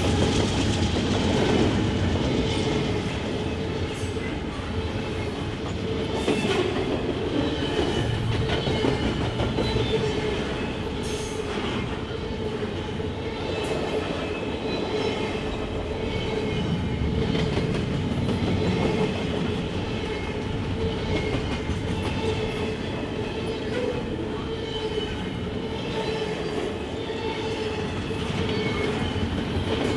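CSX freight train cars rolling past on the rails: a steady rumble of wheels on track with a steady squealing ring from the wheels.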